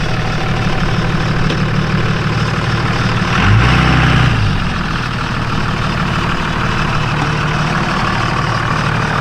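Old pickup truck's engine running steadily, with one brief rev that rises and falls about three and a half seconds in.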